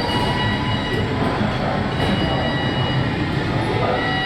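Car-factory production-line noise: a steady, dense mechanical rumble with several thin, high, steady whines that fade in and out.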